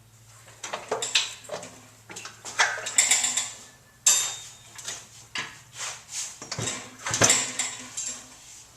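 Irregular metal clanks and scrapes from the halves of a split Ford 841 tractor being pulled apart. There is a sharp clank about four seconds in and two heavier knocks toward the end.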